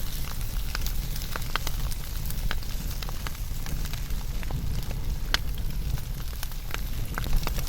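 Wood fire burning with a steady low rumble and irregular sharp crackles and pops, one louder pop a little after five seconds.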